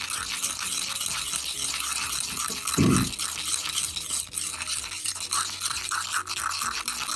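Metal spoon stirring and scraping gritty watercolour paste, with crushed stone in it, around the inside of a mortar: a steady rasping scrape. One dull knock about three seconds in.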